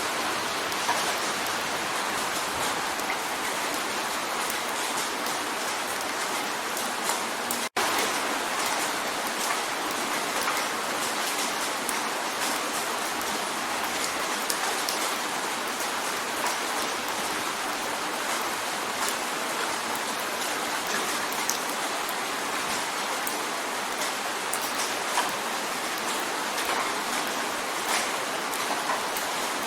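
Steady rain drumming on a window pane: an even hiss full of fine, close-spaced drop ticks. The sound cuts out for an instant about eight seconds in.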